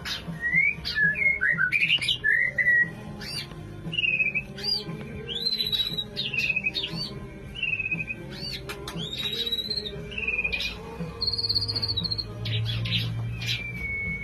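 Male white-rumped shama singing its courtship song to a female: a run of varied whistled phrases that rise and fall, broken by sharp clicks, with a short trill and a long held whistle near the end.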